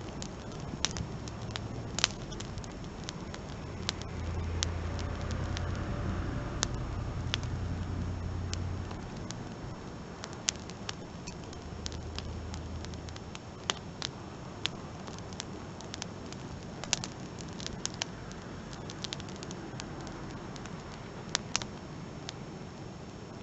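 Wood fire crackling, with irregular sharp pops and snaps over a soft hiss of burning. A low hum rises under it for a few seconds in the first half.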